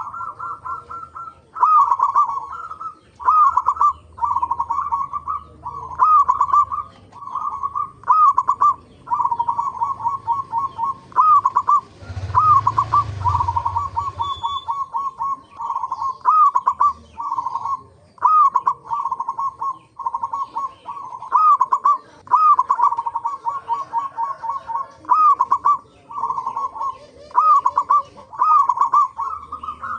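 Zebra doves (local perkutut) cooing over and over, each phrase a quick run of soft rolling coos, repeated every second or so. About twelve seconds in, a brief rush of noise with a low rumble sounds under the calls.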